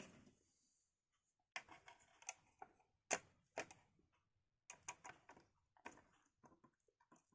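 Small hard clicks and taps from PC components being handled during assembly, coming irregularly in short clusters with one sharper click about three seconds in. A brief rustle opens it.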